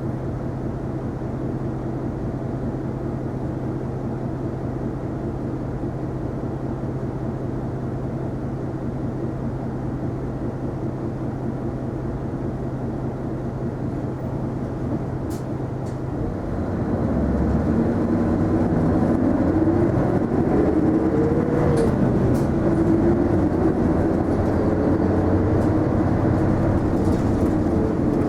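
Isuzu Erga non-step city bus's diesel engine heard from inside the cabin, idling steadily. About sixteen seconds in it grows louder and its pitch rises and falls as the bus pulls away and accelerates.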